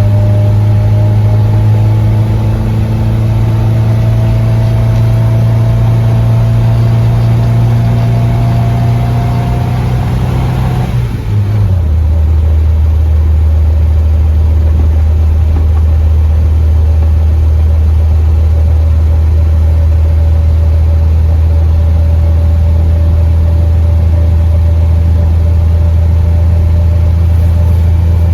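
Triumph Spitfire 1300's four-cylinder engine pulling the car along, its revs slowly rising. Partway through there is a brief dip and the pitch drops sharply at a gear change, then the revs settle and climb slowly again.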